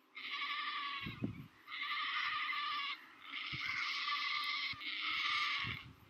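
Bird calls: four long, harsh calls of about a second each, separated by short gaps.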